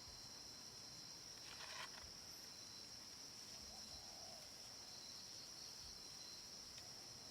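Insects trilling in a steady, faint, high-pitched drone. A brief rustle about a second and a half in is the loudest moment.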